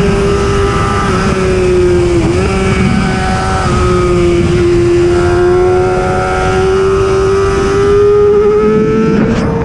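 Racing superbike engine held at high revs under load, over a steady rush of noise. The note dips briefly about two seconds in, sags slightly, then climbs again, with a short break near the end.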